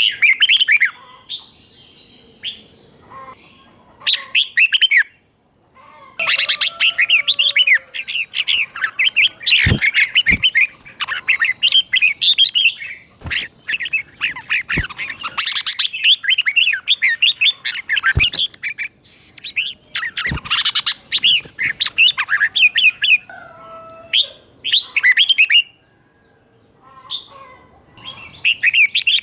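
Red-whiskered bulbul singing bursts of quick, chattering phrases with short pauses between them. A few sharp knocks sound through the middle.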